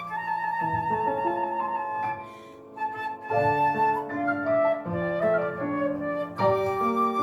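Flute playing a lyrical melody with vibrato and a trill-like wavering note over piano accompaniment in a classical piece; the music eases off briefly about two seconds in, then resumes.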